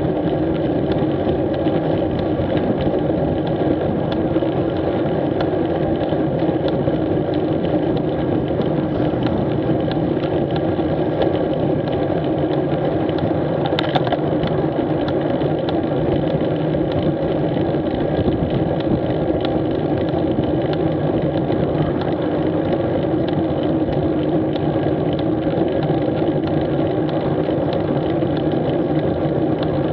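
Street motorcycle's engine running steadily under way, an even drone with a single sharp click about halfway through.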